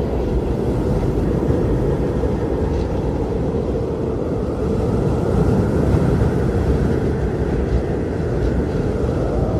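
Strong blizzard wind blowing steadily with a low rumble, and a faint higher howl that swells and fades in the middle.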